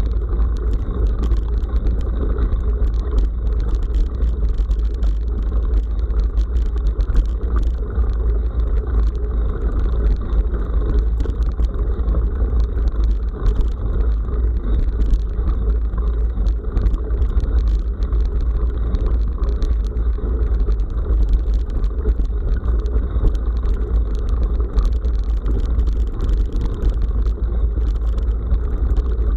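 Steady wind and road rumble picked up by an action camera riding on a bike along a rough forest track, with scattered short clicks and rattles throughout.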